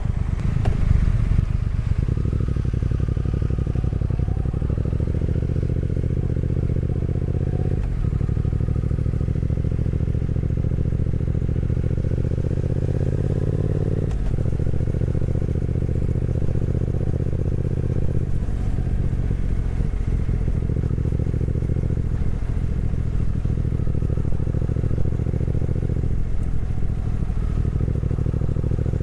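Motorcycle engine running under way, its pitch climbing slowly as it accelerates and dropping sharply at several gear changes.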